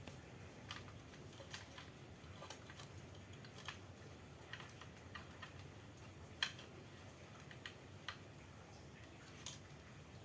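Faint, irregular light clicks and taps, about a dozen spread unevenly, the loudest about six and a half seconds in, over a faint low hum.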